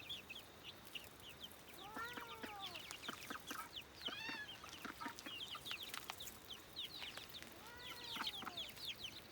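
A flock of young chickens clucking and cheeping: many short, high chirps throughout, with longer arching calls about two seconds in, about four seconds in and near the end.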